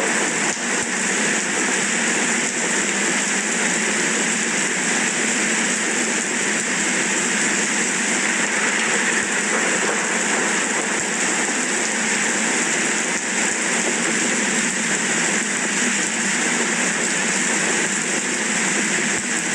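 Steady rain falling, an even hiss that holds without a break and with no thunder.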